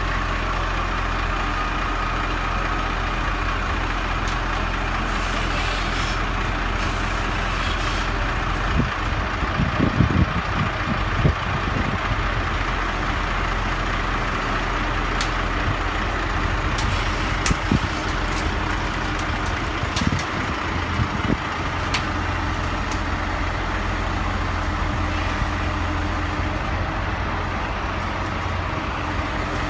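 Heavy diesel engine running steadily, with a few sharp knocks and clanks, mostly about a third of the way in and again past the middle.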